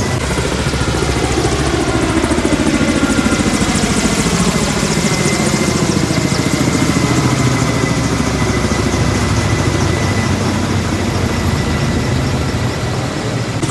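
Loud, steady engine noise whose pitch falls slowly over the first several seconds.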